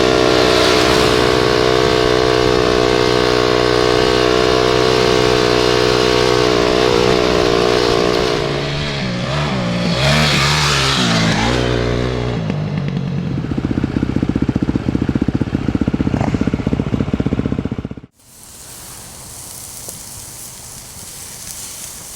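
Dirt bike engines running, holding a steady pitch at first, then revving up and down, then settling into a rhythmic putter. About 18 s in, the engine sound cuts off and a wind-like rush follows.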